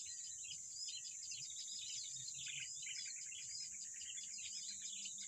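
Forest ambience: many small birds chirping and twittering continuously over a steady, high-pitched insect drone.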